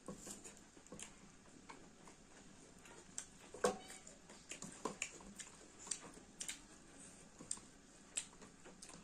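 Close-up eating sounds of chicken being chewed: irregular wet smacks and clicks of the mouth, the loudest about three and a half seconds in.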